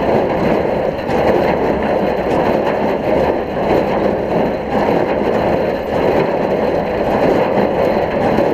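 Oliver 770 tractor engine running steadily while it pulls a working Case 230 square baler.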